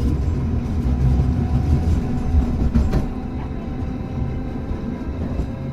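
Hankai Tramway car No. 351 running along the line, heard from on board: a steady rumble of wheels and running gear. A sharp click about three seconds in, after which the rumble eases and a faint steady whine remains.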